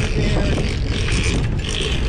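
Boat engine running steadily under way, with wind noise on the microphone.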